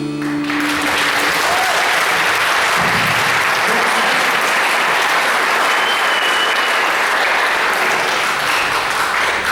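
A held final chord rings out and stops within the first second, then an audience applauds steadily, with a short whistle about six seconds in.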